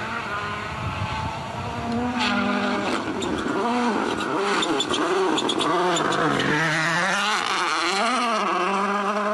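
M-Sport Ford Puma Rally1 rally car's engine driven flat out, its revs climbing and dropping sharply again and again through gear changes and lifts. A run of sharp clicks and pops comes about a third of the way in.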